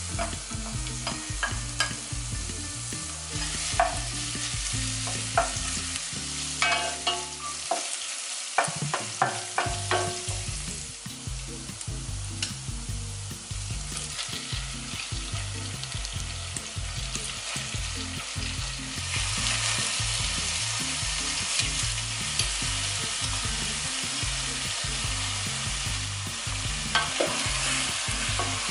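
Julienned ginger and garlic sizzling in hot oil in a pot, with a utensil stirring and tapping against the pot. The sizzle grows louder about two-thirds of the way through as raw chicken pieces go into the oil and are stirred with a wooden spatula.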